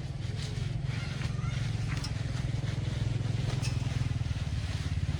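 An engine running steadily, growing slowly louder.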